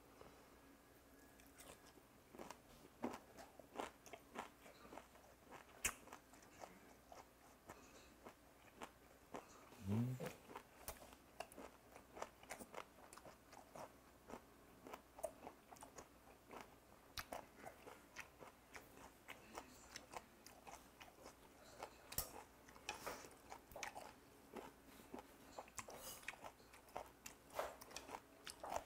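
Faint close-up chewing and crunching of raw goby sashimi, its soft bones crackling between the teeth in short irregular clicks. There is a brief rising hum about ten seconds in.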